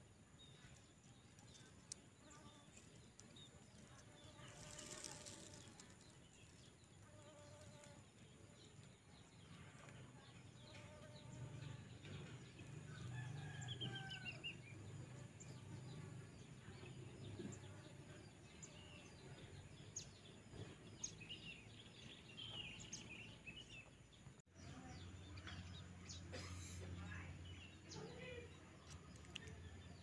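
Faint outdoor ambience: scattered short calls of distant birds over a low, steady background rumble.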